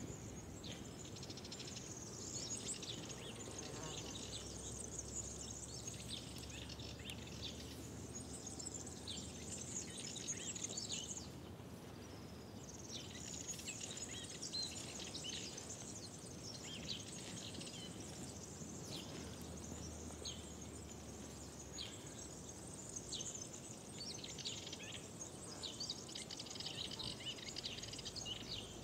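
Many small birds chirping and singing over one another, with a short lull about eleven seconds in, over a faint steady background noise.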